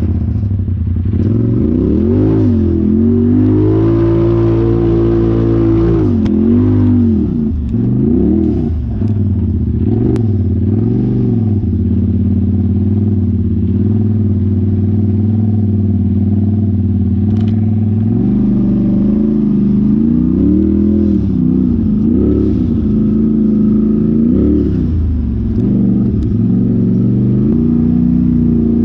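An off-road vehicle's engine running under way, its pitch repeatedly rising and falling as the throttle is worked on and off.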